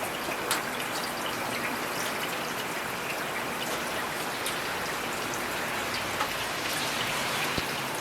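Steady heavy rain falling, a dense even hiss with individual drops ticking sharply here and there.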